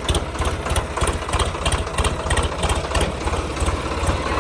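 Sonalika DI-35 tractor's diesel engine running with a steady low throb, with a run of sharp clattering knocks over the first three seconds that then ease off.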